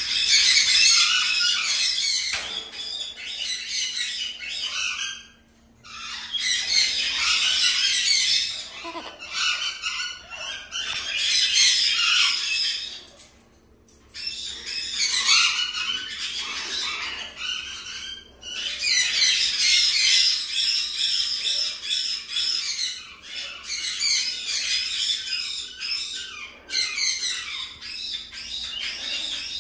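Parrots chattering and squawking, dense high-pitched calls in bouts of several seconds with short pauses between.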